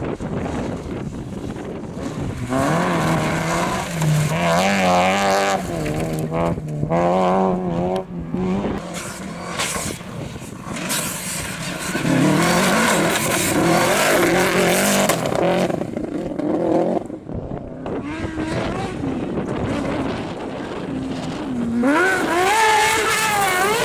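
Rally competition engines revving hard on a gravel stage, their pitch rising and falling with throttle and gear changes, loudest in three stretches: from about 3 to 9 seconds, from 12 to 16 seconds, and again near the end.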